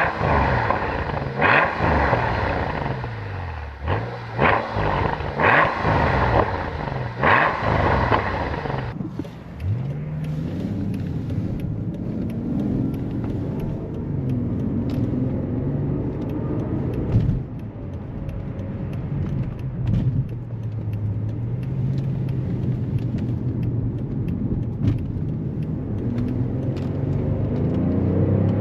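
Mercedes S65 AMG's 6.0-litre twin-turbo V12 revved in several quick blips, each sharply rising and falling, over the first nine seconds. After that it runs at low revs with its pitch drifting gently up and down.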